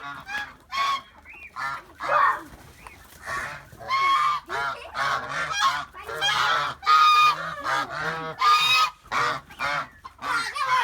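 A group of farm birds calling loudly and repeatedly in many short, overlapping calls, alarm calls from birds that have just been scared.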